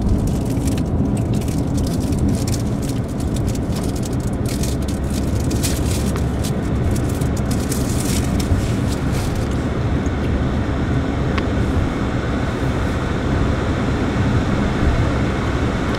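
Car running on a snowy road, heard from inside the cabin: a steady low rumble of engine and tyres. Frequent small crackles and ticks run through the first half, then stop.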